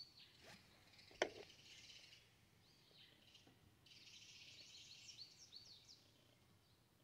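Backyard songbirds chirping and calling faintly: short, quick high notes, with a stretch of busier chatter in the second half. A single sharp click sounds about a second in.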